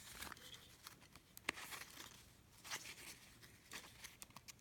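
Faint rustling of paper and card being handled, with a few small clicks and taps, the sharpest about a second and a half in.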